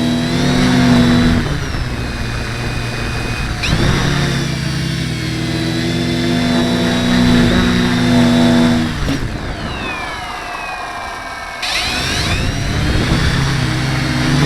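H-frame quadcopter's electric motors and propellers buzzing, the pitch shifting with throttle. About nine seconds in they wind down in a falling glide, then spin back up sharply about two and a half seconds later. This is the buzz the owner is questioning.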